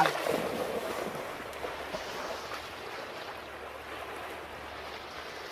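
Steady rushing noise, loudest at the start and then easing to a lower even level.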